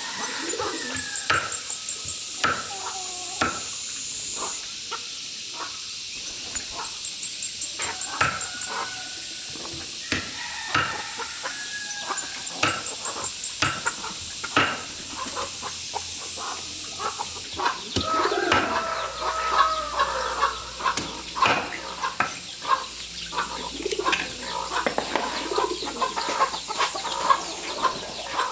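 Chickens clucking, with many short sharp clicks and knocks throughout and a steady high-pitched hiss behind them.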